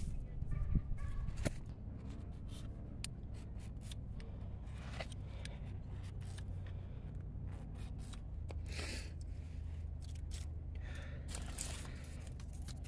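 Firewood and kindling being handled while a fire is laid: a few sharp clicks and knocks in the first two seconds, then scattered scrapes and rustles, over a steady low hum.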